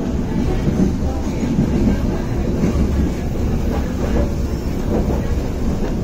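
Passenger train carriage running along the track, heard from inside the car: a steady rumble of wheels on rail, with a few faint clicks of the wheels over rail joints about four and five seconds in.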